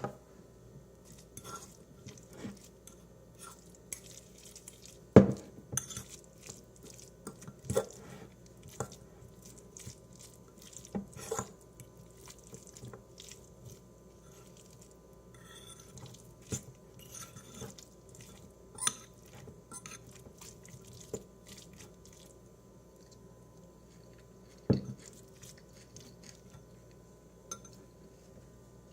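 Cutlery and dishes being handled: irregular clinks, taps and knocks, the sharpest about five seconds in and again near the end, with softer ticks between.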